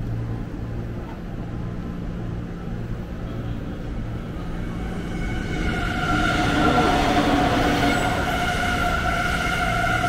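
Electric commuter train running at a station platform. A low rumble for the first half, then louder with a steady whine of several held tones from about halfway through.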